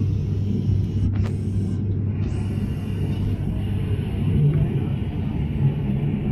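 Airliner cabin noise during descent: a steady low rumble of engines and airflow, with a low hum that shifts a little higher about four seconds in.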